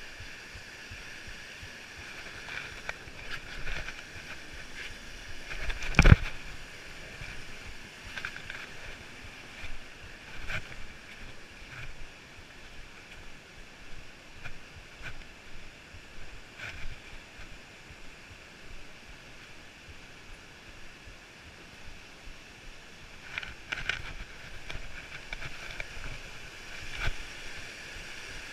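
A hiker's footsteps on a trail, picked up by a worn action camera as irregular scuffs and knocks over a low hiss, with one loud knock about six seconds in.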